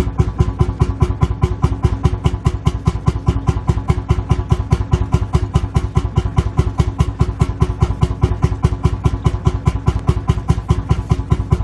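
Lanz Bulldog's single-cylinder two-stroke hot-bulb engine idling, with a steady, even beat of about five pops a second.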